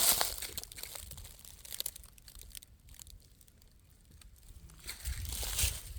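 Footsteps crunching and rustling through dry leaf litter on a forest trail, loudest at the start and again near the end, with scattered faint crackles in between.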